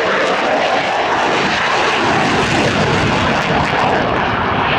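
F-16 fighter jet's engine making a loud pass, a steady jet rush whose low rumble strengthens about two seconds in.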